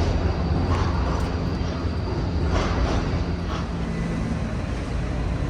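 Rail vehicle running with a steady low rumble, with a few brief clatters about one, two and a half, and three and a half seconds in.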